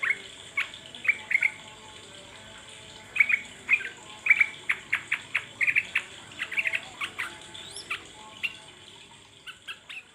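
Sooty-headed bulbul (trucuk) calling in bursts of short, quick chattering notes, with a faint steady high hiss behind. This is a lure call meant to set another bulbul singing.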